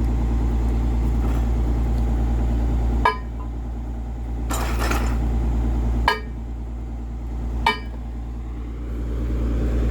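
An engine running steadily in the background, with three sharp, ringing metallic clinks about three, six and seven and a half seconds in, and a short hiss in between.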